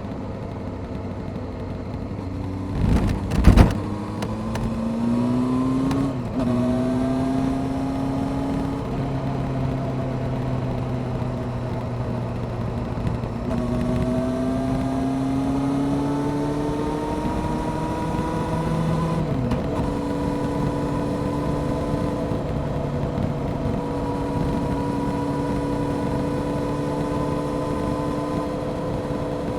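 Honda CBR600F Sport's inline-four engine pulling through the gears while riding, its pitch climbing and dropping at gear changes about six and nineteen seconds in, then holding a steady cruise, over wind and road noise. Two brief loud bursts of noise come about three seconds in.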